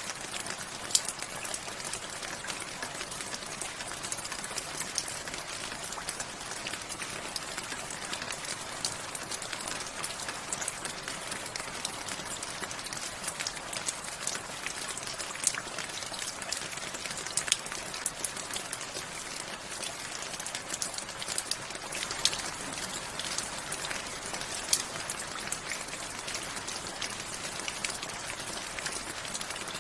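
Steady rain falling, an even hiss with many sharp individual drops ticking irregularly on a hard surface.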